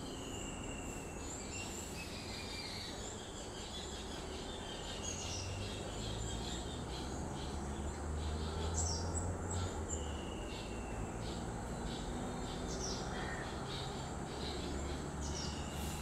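Birds calling: repeated thin whistled notes that fall slightly in pitch, and short high chips, over a steady low rumble.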